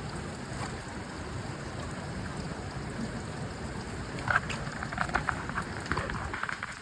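Steady rush of stream water, with a few short sharp sounds, perhaps splashes or clicks, in the second half.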